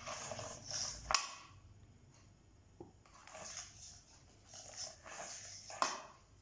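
A pet parrot making short, scratchy, noisy calls in three bursts. A sharp click comes about a second in and another near the end.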